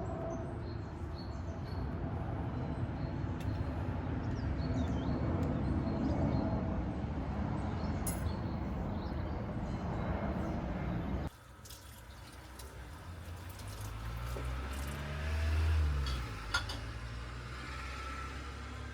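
Outdoor ambience: a steady wind-like rumble with faint bird chirps. After an abrupt cut about eleven seconds in, a low engine hum swells and fades away.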